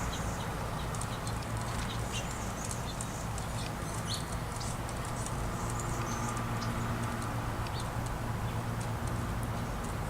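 Small songbirds at a feeder chirping, many short high calls scattered throughout, over a steady low hum.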